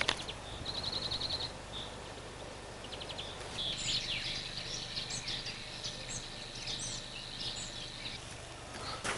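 Birds calling in the open: a quick high trill about a second in, then scattered short high chirps over a thin steady high note from about three seconds in until near the end, over a faint outdoor hiss.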